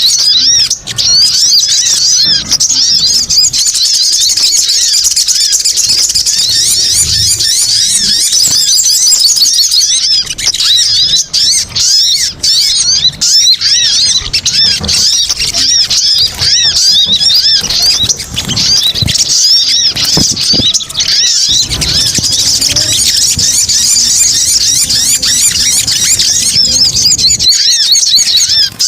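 Rapid, high-pitched chattering calls of sogon (sogok ontong) birds, a lure recording of a noisy agitated flock calling over each other without a break.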